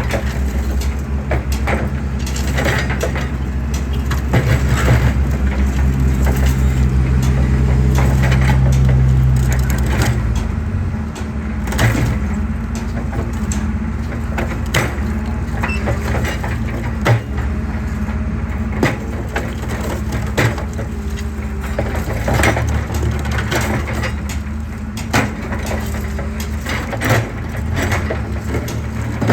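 Excavator's diesel engine running under load while it crushes concrete, with sharp cracks and knocks of breaking concrete scattered throughout. The engine works harder for a few seconds, from about six to ten seconds in.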